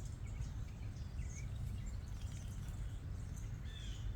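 Short, scattered chirps from several small backyard birds, over a steady low background rumble.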